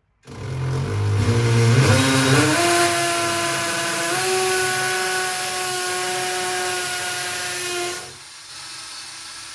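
Electric power drill boring a hole: the motor whine rises in pitch as it spins up in the first couple of seconds, then runs steadily under load with a grinding hiss. About eight seconds in it gets quieter but keeps spinning, as the bit runs more freely.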